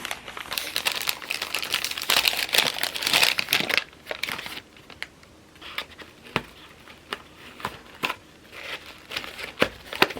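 Packaging crinkling and tearing as a parcel is unwrapped by hand, dense for about four seconds, then in scattered crackles.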